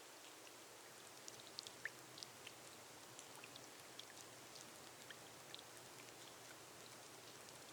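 Faint, steady rain falling on a glass roof: a soft even hiss with many small, irregular drop ticks on the glass.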